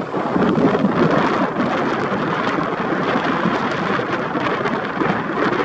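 Rough sea after a typhoon: waves breaking and washing in, a steady rush of water with no let-up.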